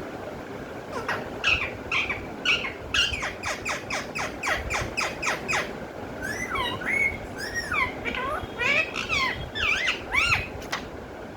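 Pet parrot calling: a quick run of sharp, downward-sliding calls, several a second, followed by a few warbling notes that bend up and down in pitch.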